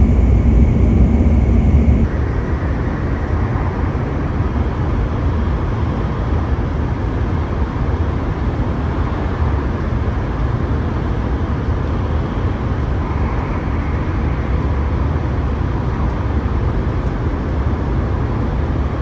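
Steady low rumble and rushing noise of a Hokuriku Shinkansen train running at speed, heard inside the passenger cabin. It steps slightly quieter about two seconds in, then continues evenly.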